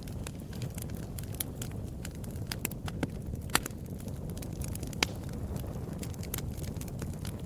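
Wood fire in a fireplace crackling: a steady low rumble of the flames under scattered sharp pops, two of them louder, about three and a half and five seconds in.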